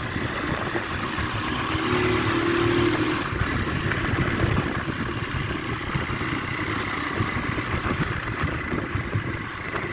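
150 cc motorcycle engine running under way, with a rush of wind and road noise on the microphone. The sound cuts off abruptly at the end.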